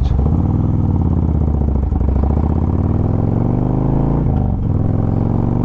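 Harley-Davidson Road Glide's V-twin accelerating from a standstill, its pitch climbing, with a brief break about four seconds in before it pulls again. It is in rain mode, so the throttle response is softened: the engine has less pull and works harder to get up to speed.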